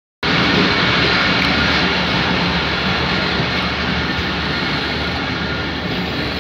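Steady running noise of a moving passenger train heard through an open coach window: a rushing of wind and wheels over a low, even engine drone.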